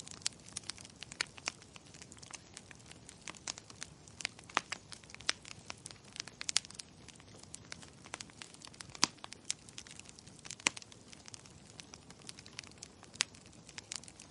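Wood fire crackling in a fireplace: a continual run of irregular sharp pops and snaps over a faint low hiss, with a few louder pops about nine and eleven seconds in.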